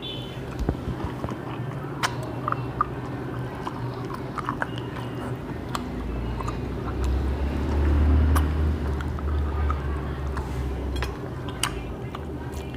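People chewing food, with scattered small clicks of eating. A low hum swells up in the middle and fades again.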